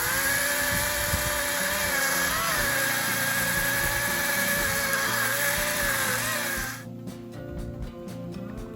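Chainsaw running steadily while cutting, its pitch dipping briefly twice under load, then stopping abruptly about three quarters of the way through; background music underneath.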